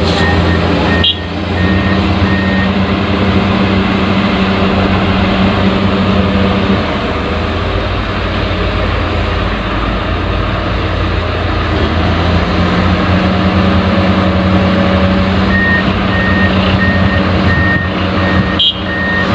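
Heavy construction vehicle's diesel engine running steadily, with a reversing beeper pulsing near the start and again near the end, and a short clunk about a second in.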